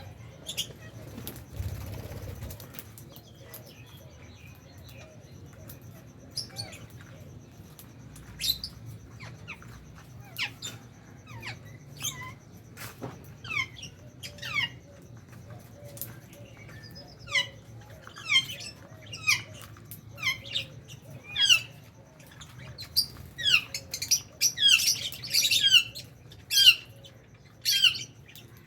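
Lovebirds chirping: short, sharp calls that drop in pitch, scattered at first and coming thicker and faster in the second half, with a burst of overlapping calls a few seconds before the end.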